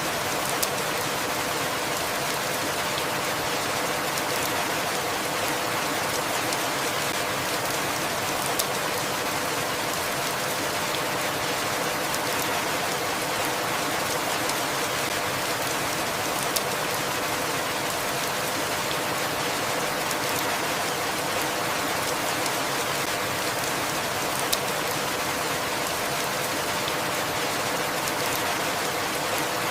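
Steady rain falling evenly, with a sharp louder drop ticking out four times, about every eight seconds.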